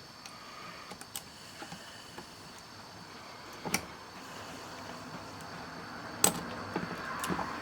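Small sharp metal clicks and taps of a tool working a tiny E-clip off a shaft in an 8-track player's mechanism, a few scattered clicks with the loudest about six seconds in.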